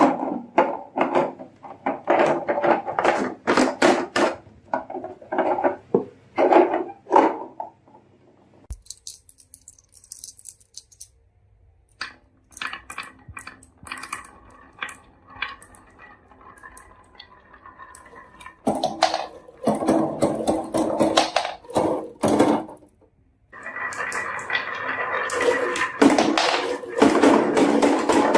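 Marbles clacking and rolling down a wooden marble run: rapid strings of sharp clicks as they drop and knock against the track and each other, with dense rattling stretches where many marbles run at once. The sound breaks off abruptly about nine seconds in and resumes.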